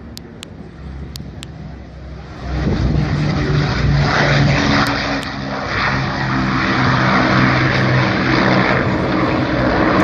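Aircraft engine noise from a plane flying past. The sound grows suddenly loud about two seconds in and stays loud with a steady low engine pitch.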